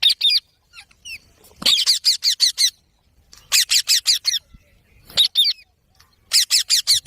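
Indian ringneck parrot screeching in about five quick bouts, each a fast run of shrill, down-slurred notes, with short pauses between them.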